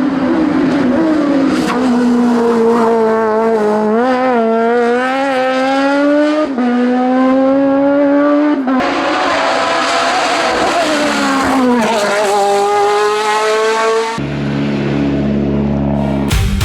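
Hillclimb race car engine at full throttle, pitch climbing and dropping back at each upshift as it accelerates through the gears. About 14 seconds in it cuts off abruptly and a steady low hum takes over.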